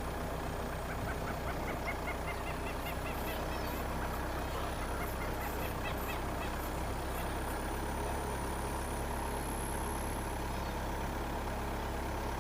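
Two runs of short, repeated bird calls over a steady low hum; the first run climbs in pitch.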